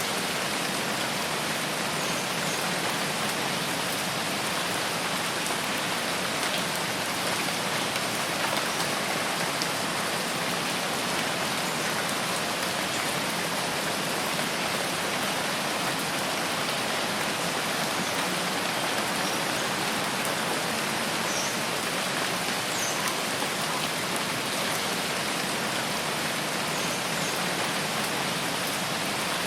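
Steady rain falling, an even hiss that holds at one level throughout, with a few faint, short high chirps here and there.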